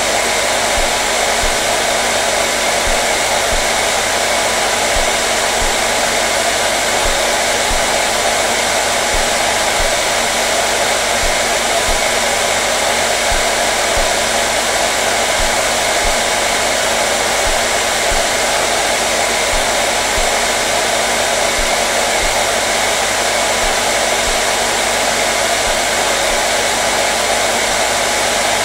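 Hair dryer running steadily at a constant speed: an even rushing airflow with a steady motor hum underneath.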